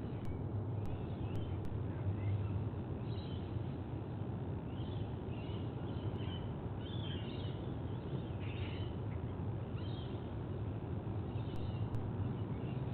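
Faint, scattered bird chirps over a steady low rumble, the chirps coming most often between about five and ten seconds in.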